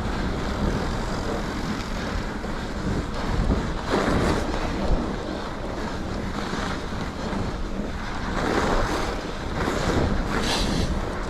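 Wind buffeting the microphone while riding a mountain bike, over the rumble of its 2.8-inch tyres rolling on groomed, packed snow. The noise swells louder about four seconds in and again near the end.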